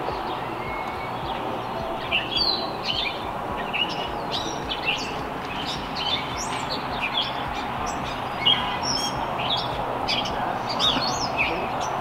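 Small birds chirping in many short, high calls over a steady background hiss.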